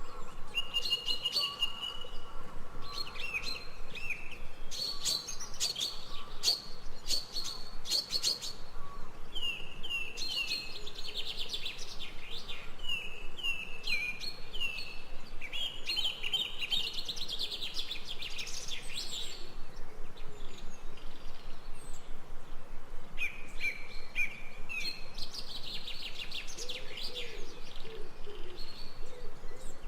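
Several birds chirping and calling over one another in overlapping phrases of quick, high notes that come and go. A lower, softer call joins near the end.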